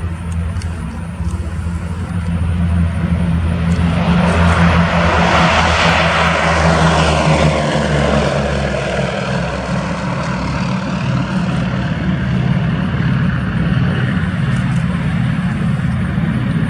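Boeing B-17 Flying Fortress taking off, its four Wright R-1820 Cyclone radial engines running at full power. It grows loud a few seconds in as it passes, then its pitch drops and the sound eases slightly as it moves away.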